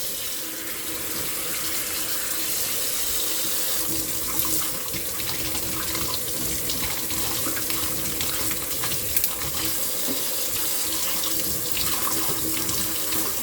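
Running water pouring steadily as brassica stalks are rinsed and rubbed clean by hand under it, with a few small knocks.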